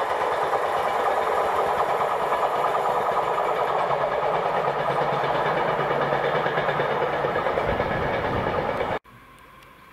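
Diesel freight train passing close by, the locomotive's engine running under a steady, loud mechanical noise; it cuts off abruptly near the end.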